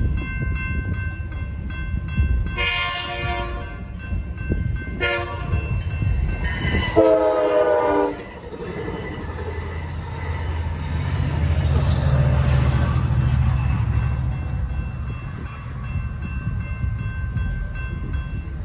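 Amtrak San Joaquin passenger train sounding its horn at a grade crossing over the crossing bells' ringing: a blast, a short blast, then a longer blast that drops in pitch as the locomotive passes. The train then rumbles through over the rails, and the crossing bells are heard again near the end.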